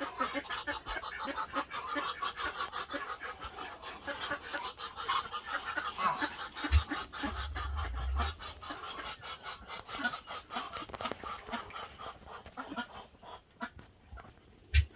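Several chickens clucking and chattering to each other in a steady run of quick short calls, with a couple of sharp knocks, one midway and one near the end.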